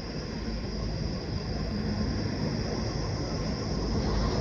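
Jet airliner engines: a steady low rumble with a hiss above it, growing gradually louder.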